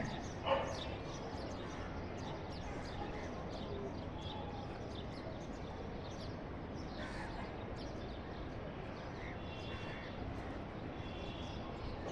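Birds calling outdoors: many short high calls scattered over a steady background hiss and rumble.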